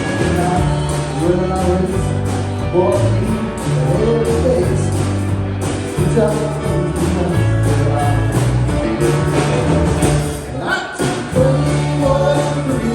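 A band playing a song with singing: a steady bass line under sung vocals, with regular cymbal ticks from the drums.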